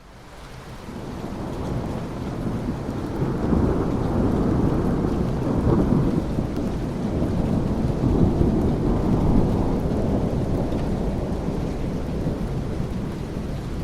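Steady rain with rolling thunder, fading in over the first couple of seconds; the low rumble of the thunder swells twice, about midway through and again a little later.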